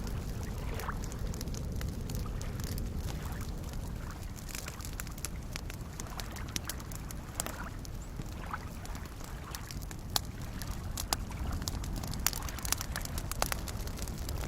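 Campfire crackling with scattered sharp pops, more of them in the second half, over a steady low wash of small waves lapping at a lakeshore.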